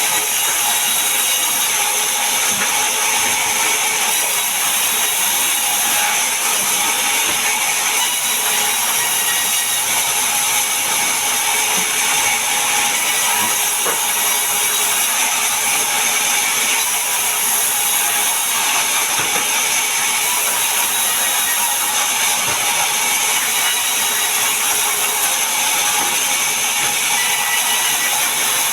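Power saw running steadily while cutting mahogany wood, a continuous high-pitched whine and hiss without a break.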